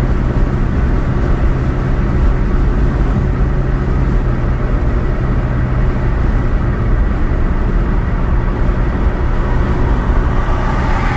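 Steady road noise inside a car driving on a highway: a constant low engine hum under rumbling tyre noise.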